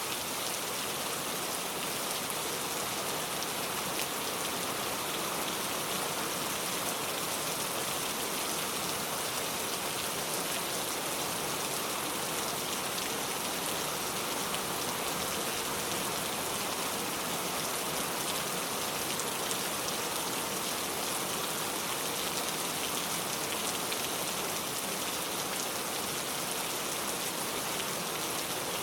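Steady rain falling, an even sound of many drops that holds constant without let-up.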